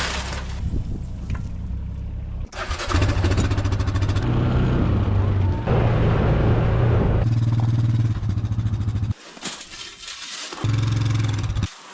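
A motor vehicle engine running, with a sudden drop in level about nine seconds in, a short return and another drop near the end.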